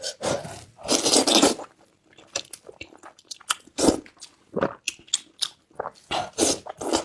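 Close-miked eating of wide starch noodles: a loud slurp about a second in, then wet chewing with short smacking clicks.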